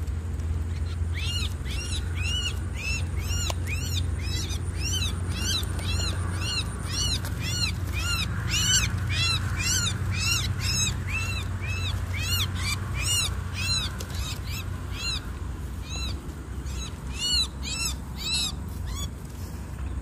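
A bird calling over and over in quick short arched notes, about two or three a second, with a brief lull a little after the middle, over a steady low rumble.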